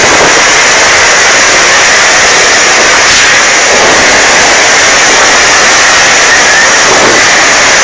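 Typhoon-force wind blasting over the microphone: a loud, steady rushing roar with a faint high whistle.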